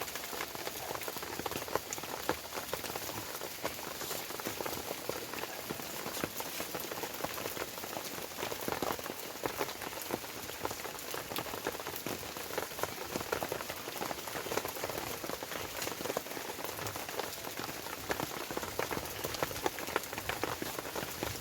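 Heavy rain falling steadily, a dense patter of countless small drop strikes.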